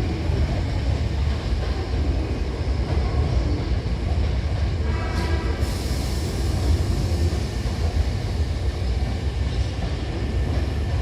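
Hankyu 9000 series electric train pulling into the platform, its running gear giving a steady low rumble. About five seconds in there is a short pitched tone, followed by a brief hiss of air.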